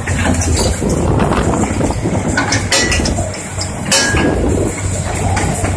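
Heavy diesel machinery running with a steady low engine drone, with several sharp metallic clanks and knocks.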